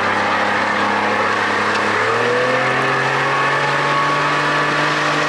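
Evinrude 25–30 hp two-stroke outboard motor running as it warms up. About two seconds in, the engine speed rises and then holds steady at the higher pitch.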